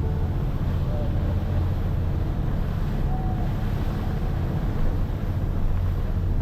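Boat under way: a steady low engine and hull rumble, with wind buffeting the microphone and the rush of water.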